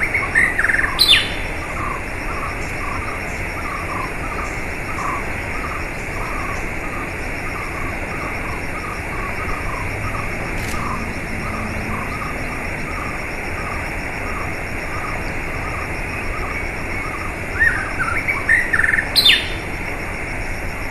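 Wild birds calling over a steady rush of flowing water: a run of short chirps repeated about twice a second, with louder, sharper calls about a second in and again near the end.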